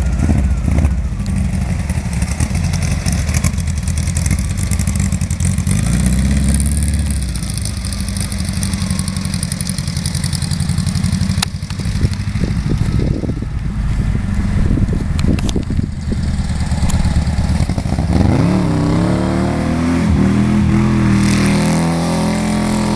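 Sand rail's air-cooled 1830 cc dual-port VW flat-four with dual Weber carburettors running hard as the car is driven, its pitch rising and falling with the throttle and climbing steeply near the end as it accelerates.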